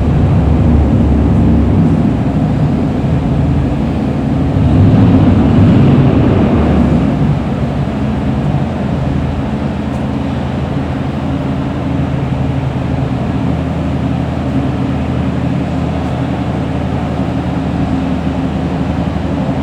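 An engine starts up loud and keeps running steadily, with a low pulsing note. It swells for a couple of seconds about five seconds in, then settles back.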